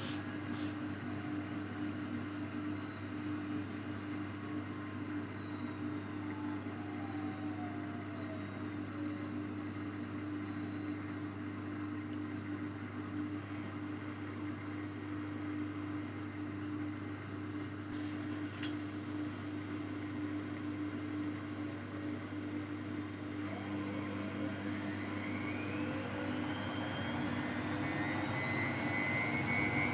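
Miele Novotronic W822 washing machine in its final spin: the drum turns with a steady motor hum, and about two-thirds of the way through a whine starts rising in pitch and getting louder as the motor speeds the drum up.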